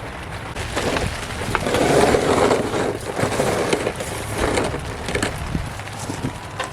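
Scraping, rustling and short knocks of hands and tools working a freshly fitted alternator and its mounting bolt into place in a car's engine bay.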